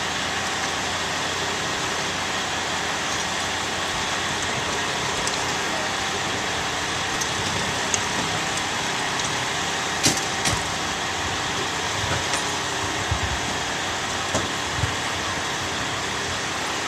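Steady running noise of vehicle engines, with a few short clicks; a sharp click about ten seconds in.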